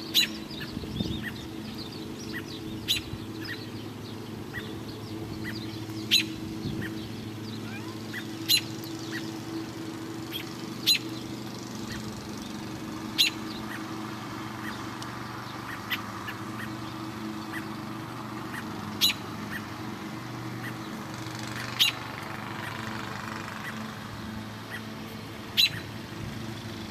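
A bird calling a short, sharp note about every two to three seconds, over a steady low hum.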